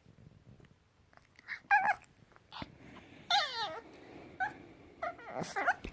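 A puppy vocalizing in a string of short, high, wavering calls, including a longer call falling in pitch about three and a half seconds in, and a quick cluster of calls near the end.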